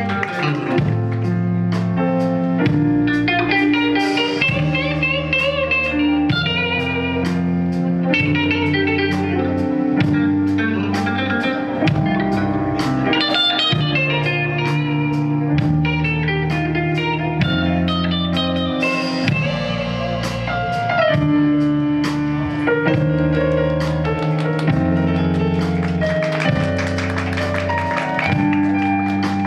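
Live band playing an instrumental passage, guitar to the fore over a steady beat.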